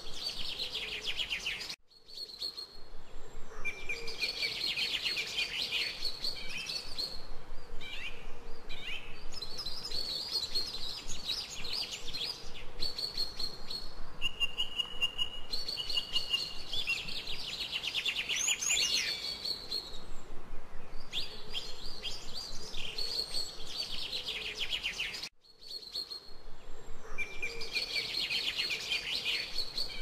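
Songbirds singing: repeated rapid trilled phrases a couple of seconds long, separated by short gaps. The sound cuts out briefly twice, near the start and near the end.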